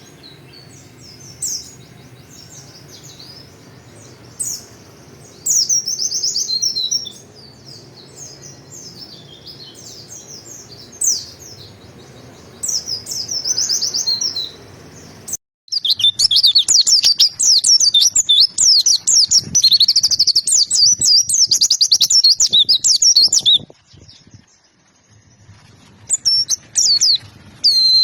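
White-eye (pleci) singing in high, quick chirping phrases: short scattered bursts at first, then after a brief dropout a long fast run of song lasting about eight seconds. It pauses, then starts again near the end.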